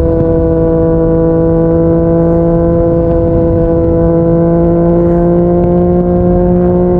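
Yamaha MT-09's inline-three engine through a Yoshimura R55 slip-on exhaust, running at steady cruising speed with a continuous drone whose pitch creeps slowly upward, over a rush of wind noise.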